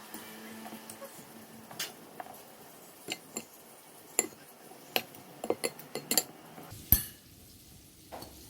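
Light, scattered clinks and knocks of dishes and utensils being handled, about a dozen separate strikes, the sharpest one near the end.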